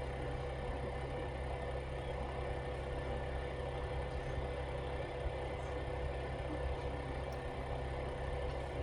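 A steady mechanical hum with a constant tone, unchanging throughout, with a few faint ticks.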